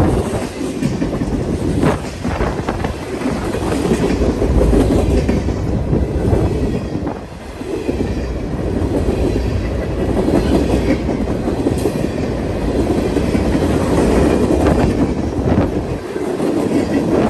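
A train rolling past, its wheels rumbling and clattering steadily over the rails, with a short dip in level about seven seconds in.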